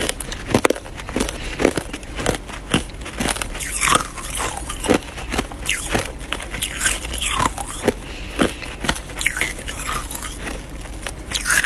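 Close-up crunching of hard ice being bitten and chewed, with repeated sharp cracks and crackles, a few a second.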